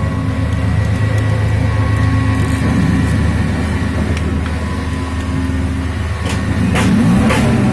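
Hyundai Santro Xing 1.1-litre engine running at a steady idle, with a few sharp clicks near the end.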